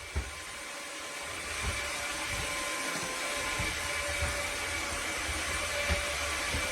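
Narwal S30 wet-dry vacuum mop running: a steady motor and airflow noise with a high whine, over irregular soft low knocks.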